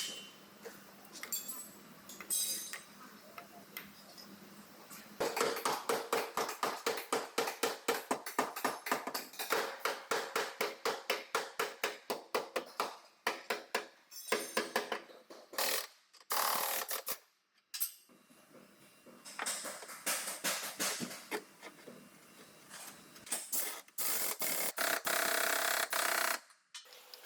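A rapid, even run of hammer taps on sheet metal, about six a second, for roughly eight seconds, typical of panel beating a dented body panel. Later there are scattered single taps and a few seconds of steady rushing noise.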